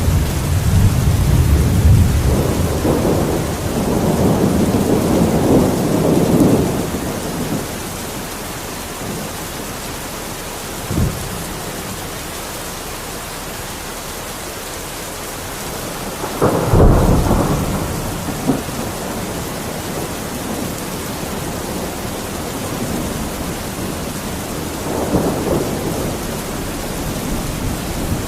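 Steady heavy rain with thunder rolling several times: a long low rumble over the first several seconds, a short sharp crack about eleven seconds in, a louder crack and rumble about two-thirds of the way through, and a softer rumble near the end.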